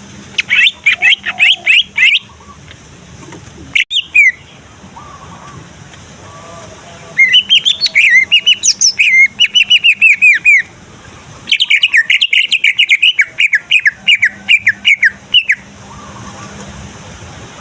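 Male cucak ijo (green leafbird) singing loud bursts of fast, repeated high chattering notes. A short phrase comes near the start and a brief call around four seconds in, followed by two long runs of rapid trills several seconds each.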